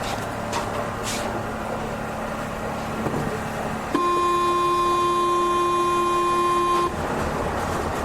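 Paris Métro ambience with a steady low rumble and hum. About halfway through, a loud, steady buzzer-like tone sounds for about three seconds and cuts off suddenly: the Métro's door-closing warning signal.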